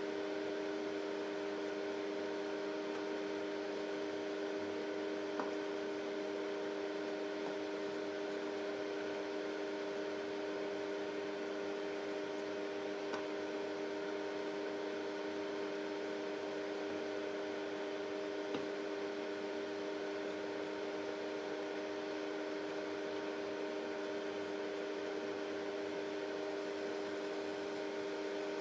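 Microwave oven running: a steady hum made of several fixed tones over a fan-like hiss, with a few faint ticks now and then.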